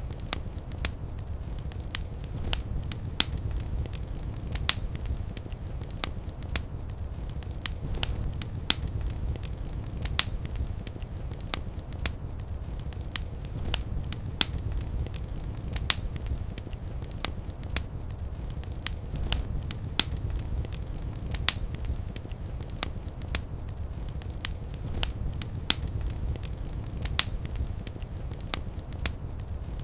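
Fireplace fire crackling: sharp, irregular pops and snaps, a few a second, over a steady low rumble of the flames.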